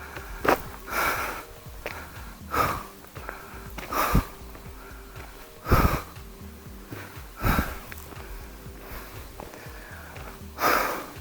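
A person's breathing close to the microphone: short, noisy breaths every second or two, over faint steady background music.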